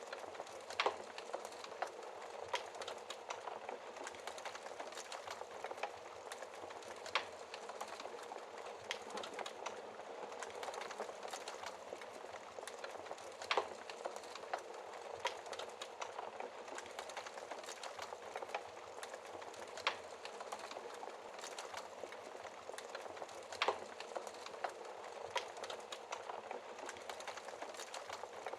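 Fireplace fire crackling: a steady hiss of burning with scattered small snaps and a louder, sharper pop every few seconds.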